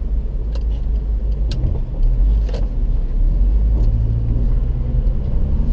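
Low, steady rumble of a car engine and nearby road traffic, heard from inside the car, growing louder about two seconds in, with a few light clicks.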